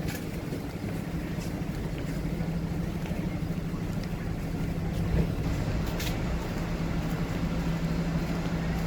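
Steady low mechanical hum of a running vehicle, holding one even tone, with a few faint clicks over it.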